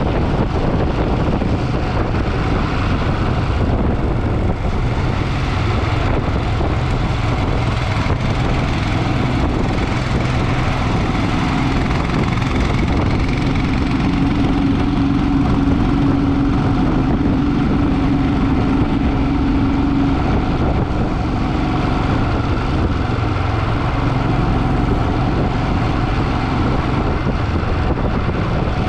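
Motorcycle engine running steadily on the move, with a steadier hum coming up for several seconds in the middle.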